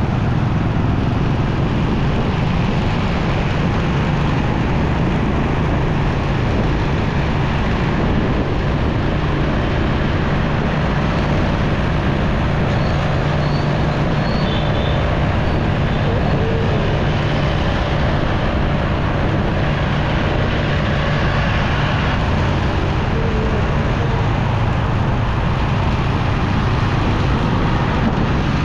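Steady, loud road noise of a motorcycle riding in city traffic: a low engine rumble with surrounding vehicles, unchanging throughout, with a few faint short tones over it about halfway through and again near the end.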